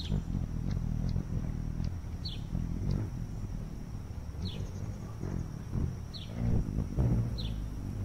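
A bird giving short, high, falling chirps about every one to two seconds over a steady low rumble.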